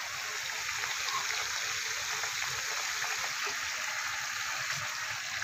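Masala-coated chicken pieces frying in hot oil, a steady crackling sizzle.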